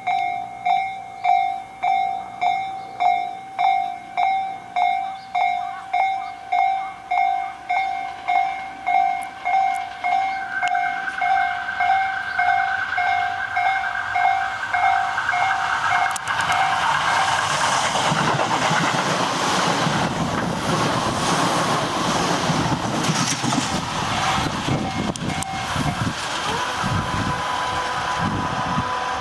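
Japanese railway level-crossing bell ringing in even strikes, about one and a half a second. A high steady tone comes in about ten seconds in, and from about sixteen seconds a Tobu Noda Line train passes through the crossing with a loud rumble and wheel clatter that all but drowns the bell.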